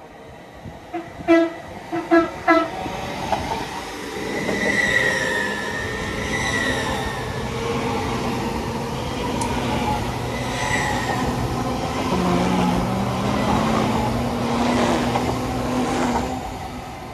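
A train passing through the station: a few short horn toots, then the rush and rumble of the train with brief high wheel squeals. A rising electric whine comes about two-thirds of the way in, and the sound fades near the end.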